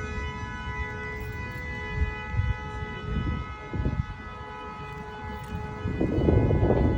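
A steady, unwavering alarm-like tone holds one pitch throughout, over low rumbling noise that swells loudest near the end.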